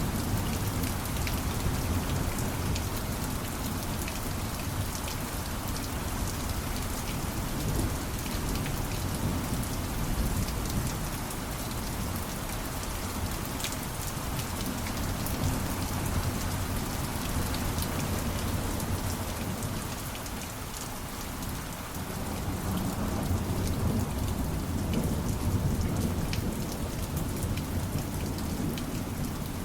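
Steady rain pattering down, with a low rumble of distant thunder underneath that eases about two-thirds of the way through and then swells again.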